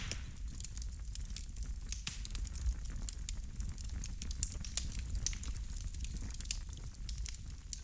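Wood fire burning in a fireplace, crackling and popping irregularly over a low steady rumble of flames.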